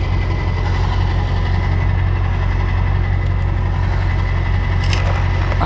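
Truck engine idling steadily, with a faint even whine above it and a short click near the end.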